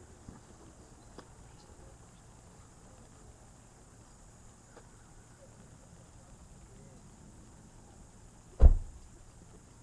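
Faint steady background with a couple of small clicks, then a single loud, low thump near the end.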